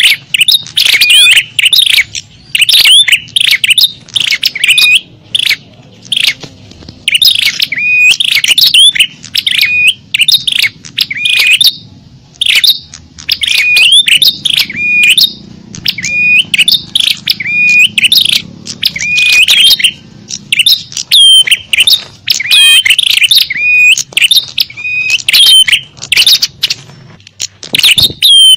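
Small-bird lure call (suara pikat), used to draw small songbirds in: loud, rapid clusters of short, hooked chirps that come again and again with brief pauses between them.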